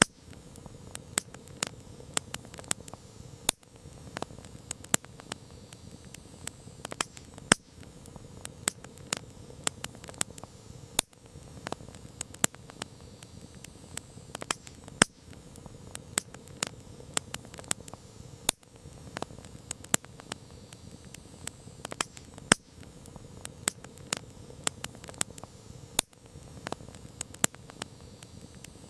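Wood campfire crackling: irregular sharp pops and snaps of burning wood, some much louder than others, over a steady low hiss of the flames.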